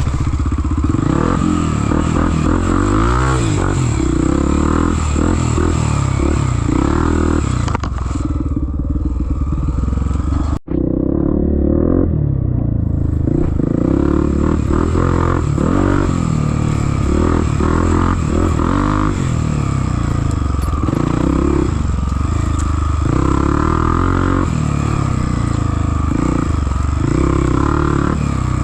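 Motorcycle engine running and revving, its pitch rising and falling again and again, with a brief dropout about ten and a half seconds in.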